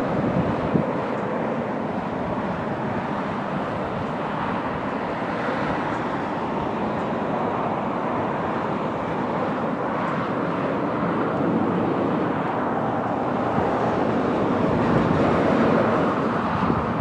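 Dump truck's engine running steadily, a continuous rumble that swells a little in the second half.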